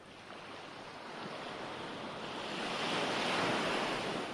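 Recorded ocean waves: a wave swells in, is loudest about three and a half seconds in, then draws back.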